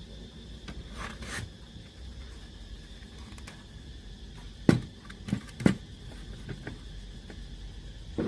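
Sharp knocks and clicks of tools and parts being handled: three within about a second, another near the end, with a faint scrape early on and a faint steady high tone underneath.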